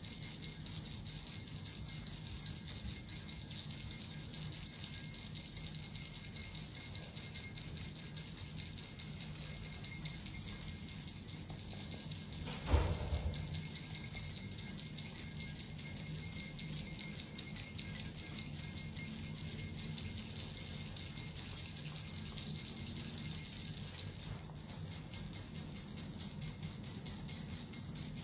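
Small suzu jingle bells shaken continuously in an even, high-pitched jingling shimmer, with a brief low thump about halfway through.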